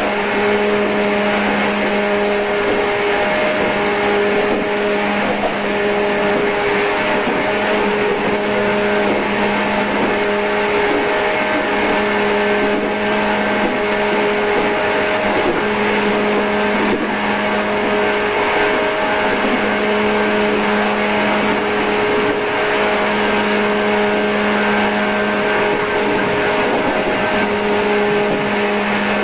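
JR East 113 series electric train running at a steady speed: a constant rumble of wheels on rail with a steady hum from the motors and gears that holds one pitch throughout.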